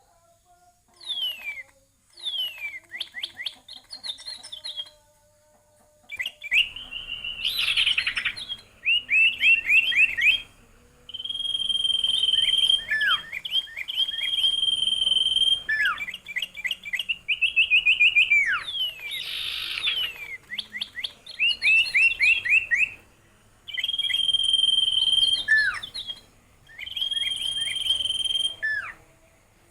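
A songbird singing in varied phrases: quick runs of repeated chirps, clear notes held steady for about a second, and sharp downward slurs, with short pauses between phrases.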